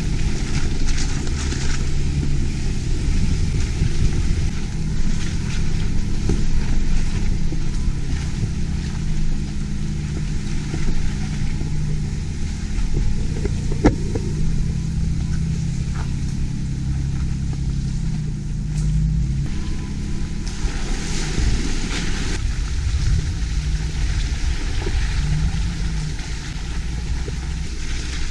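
An off-road vehicle's engine running steadily, its pitch wavering slightly, with a single sharp click about fourteen seconds in.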